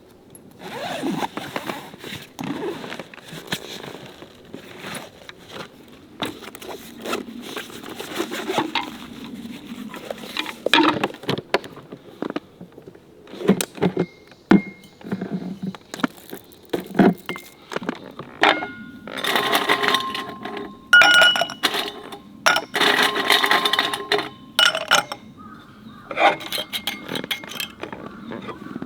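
Metal objects being handled: repeated clinks, knocks and scrapes, with short ringing tones from struck metal in the second half.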